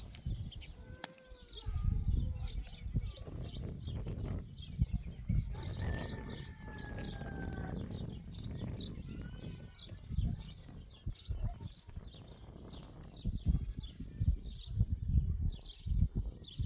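Small birds chirping over and over in short, high notes, with one slow, falling whistle about six seconds in. Uneven low rumbling and knocks run underneath and grow louder near the end.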